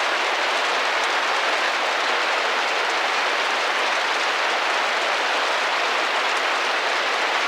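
Steady rain pattering against a window pane, an even hiss of many small drops with no single louder impact.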